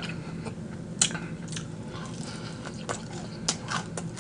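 Chewing fried chicken wings close to the microphone: scattered wet mouth clicks and smacks, the sharpest about a second in.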